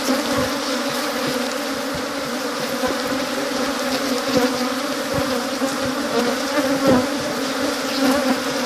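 Honeybees buzzing in a dense, steady drone around a hive opened for inspection, with a few light knocks.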